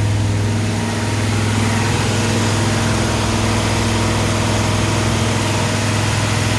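Ford 302 V8 engine running steadily at about 2,500 rpm during its break-in run, with a strong low hum that holds even throughout.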